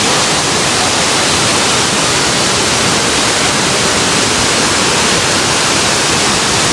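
Loud, steady rush of a waterfall, cutting off suddenly at the very end.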